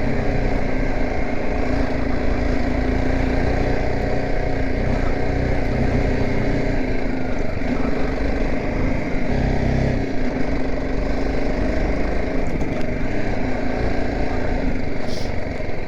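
BMW G 310 GS motorcycle's single-cylinder engine running steadily while riding, with no change in engine speed.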